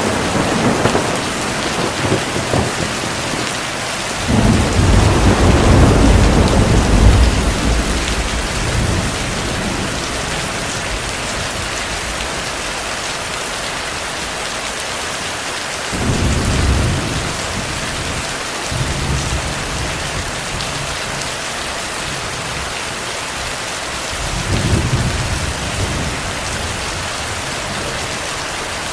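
Steady heavy rain with thunder rolling over it. A sudden clap comes at the very start. The loudest and longest rumble runs from about four to nine seconds in, and weaker rumbles come about sixteen and twenty-five seconds in.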